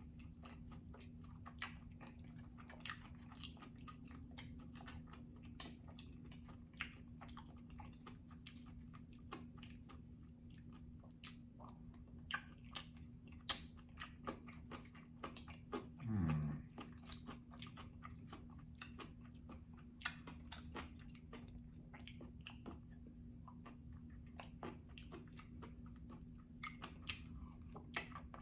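Close-miked chewing of sushi and seaweed salad: wet mouth clicks and smacks scattered throughout, over a steady low hum. About halfway through comes one short, louder, low sound that falls in pitch.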